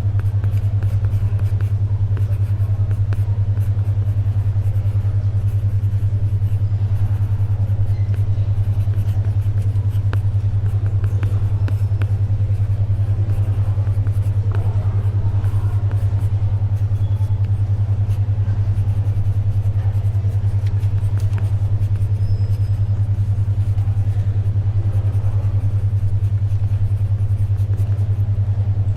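A steady low hum, a 10.2 Hz alpha-wave brainwave tone, pulsing rapidly and evenly throughout. Beneath it is faint library ambience with scattered light ticks and rustles from paper pages and pencil writing.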